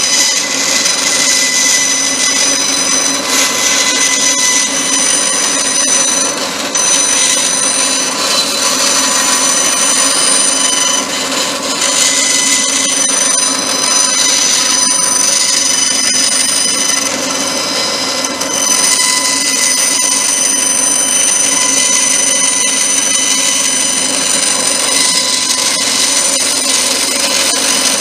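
Electric power tool running continuously with a high, steady whine over the noise of its motor, dipping briefly a few times.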